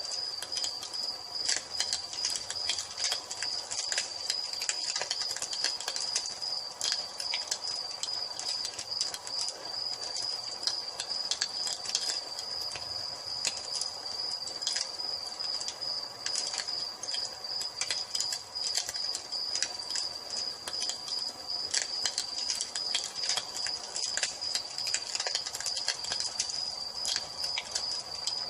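Wood fire crackling in a fireplace, with frequent irregular pops, over a steady high-pitched trill of crickets.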